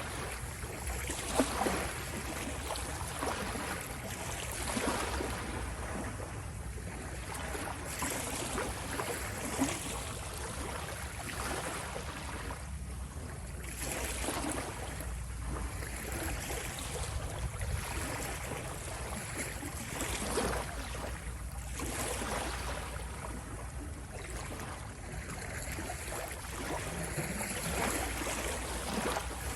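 Ocean waves washing, the rush of water swelling and easing every few seconds over a steady low rumble.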